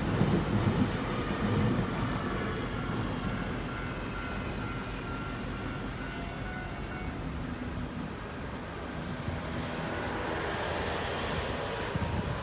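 Electric train running at the station, its low rumble easing over the first couple of seconds while a faint steady whine carries on; the noise builds again near the end.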